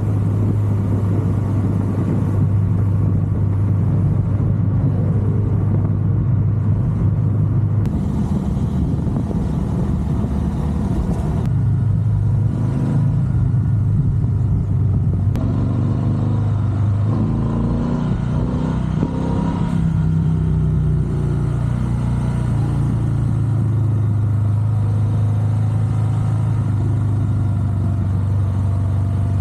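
Triumph Bonneville Bobber's 1200 cc parallel-twin engine and exhaust running while riding on the road, a steady low drone that changes pitch a few times as engine speed shifts.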